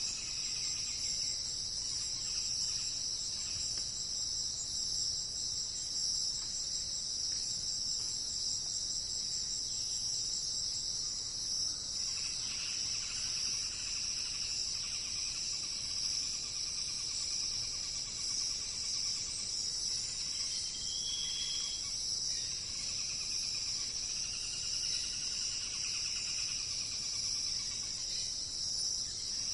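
Steady, high-pitched chorus of insects trilling without a break, with a few faint bird calls over it, one a short clear whistle about two-thirds of the way through.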